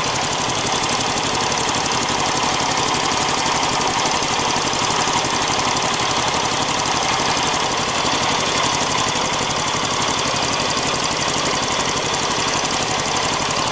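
Vehicle engine idling steadily with a fine, even pulse. A small puffing sound has been heard in it that the owner cannot place and wonders may be a vacuum leak.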